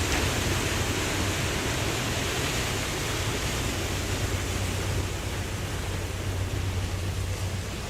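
Ocean surf: a steady, dense wash of waves with a deep low rumble, slowly easing off over the last few seconds.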